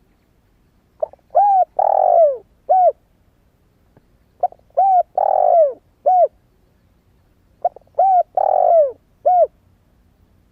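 Spotted dove cooing: three matching phrases about three seconds apart, each a quick note, two short coos, a longer falling coo and a last short coo. It is the call of a young dove that has only just begun to coo, of the kind used as a lure call to stir decoy doves.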